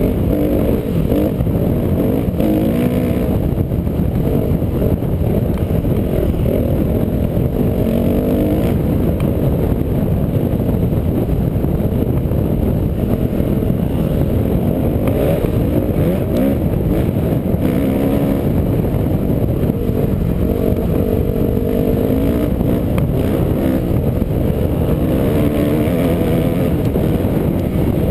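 Off-road vehicle engine running under way, its pitch rising and falling again and again with the throttle, over a steady rumble of riding over rough ground.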